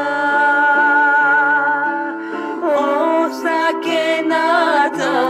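Folk song with a singing voice over steady sustained accompaniment: the singer holds one long note with vibrato, then sings a run of ornamented, wavering notes from about two and a half seconds in.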